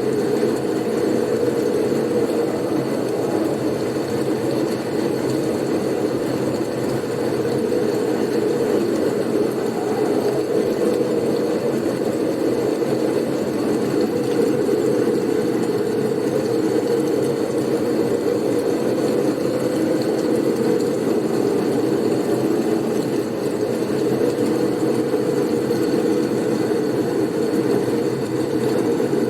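Blizzard wind ambience: a steady, low rumbling rush of storm wind with no distinct gusts, plus a faint, steady high whine.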